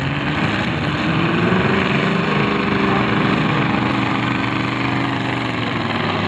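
Demolition derby cars' engines running and revving, their pitch wavering up and down over a steady wash of noise, with no sharp hit standing out.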